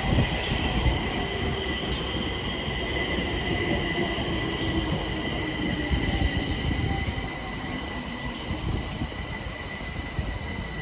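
Stockholm Metro train running on the rails, its wheels squealing in steady high whistling tones over a low rumble that slowly grows quieter.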